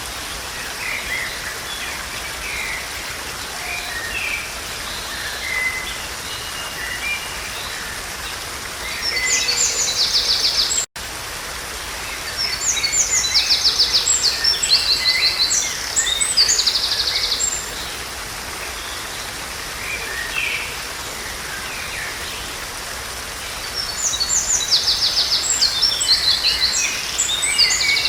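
Songbirds singing in repeated phrases of a few seconds each, with quick high notes ending in a fast trill, over the steady rush of a forest stream. The sound cuts out for an instant about eleven seconds in.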